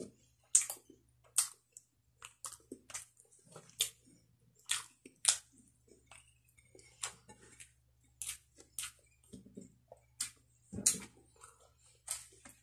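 Close-miked mouth sounds of a person eating grilled fish and rice by hand: wet lip smacks and chewing clicks, irregular, about one or two a second. A faint steady low hum lies beneath.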